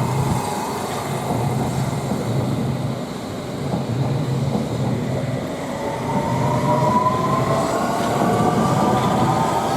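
London Underground S7 Stock District Line train passing close by, its wheels running on the rails with a steady rumble and a regular beat. About six seconds in, a traction-motor whine appears and rises slowly in pitch as the train picks up speed after leaving Wimbledon.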